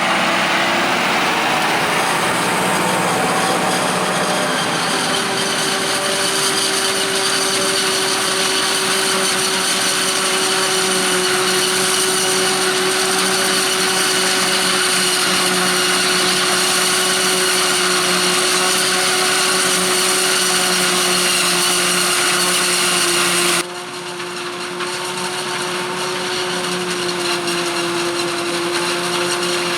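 Forage harvester running with a steady high-pitched whine over its engine, several held tones at once. About three-quarters of the way through, the sound drops suddenly in level, then slowly builds back up.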